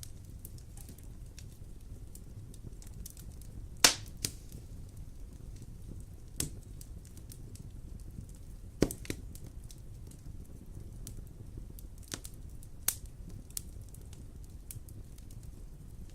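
Wood fire crackling in a fireplace: a steady low rumble under many small crackles, with several sharp pops, the loudest about four seconds in.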